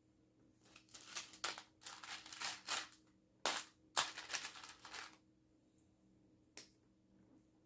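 Small plastic Lego pieces clicking and rattling as they are handled and pressed together: a run of quick clicks over about four seconds, then one more click later on.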